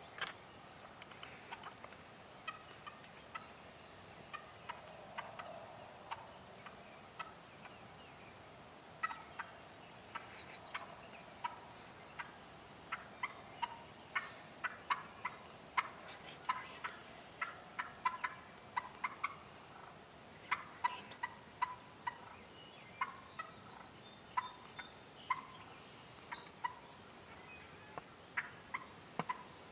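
Wild turkey hen calling in a long, irregular run of short, sharp clucks, thickest in the middle: angry noises aimed at a decoy.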